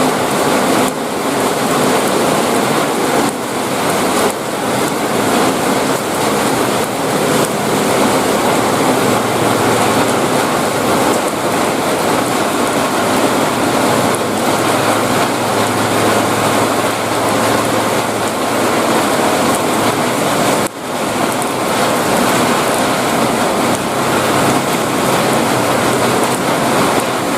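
Heavy rain pouring down steadily, a dense even hiss, with a brief drop in level about three-quarters of the way through.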